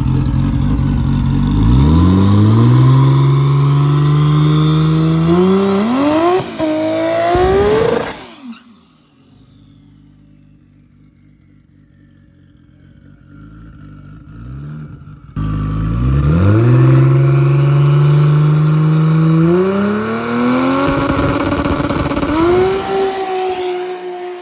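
A drag car's engine at full throttle, its pitch climbing and stepping up through the gears as it pulls away, heard twice with a quieter gap between.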